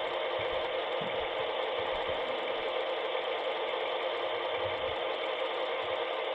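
HO scale model locomotive running steadily on the layout's track.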